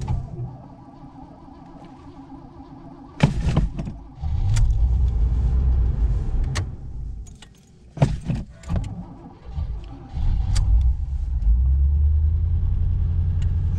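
Cold start of a 1984 Oldsmobile Ninety-Eight Regency's engine after a week of sitting in extreme cold. It is cranked and catches about three seconds in, runs a few seconds and dies away, then is cranked again and catches a little before ten seconds, running steadily on its cold idle.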